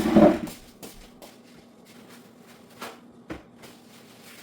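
Cleaning handling noise: a short rustling burst at the start, then a few faint clicks and taps while a refrigerator part is wiped with a wet paper towel.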